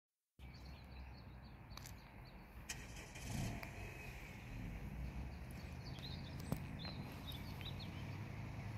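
Small birds chirping over a steady low rumble, with a single sharp click about two thirds of the way through.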